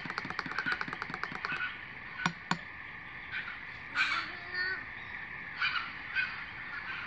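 Wild birds calling in eucalypt bush: a fast chattering run of short calls for the first second and a half, then scattered calls around four seconds and again later. Two sharp clicks sound a little after two seconds.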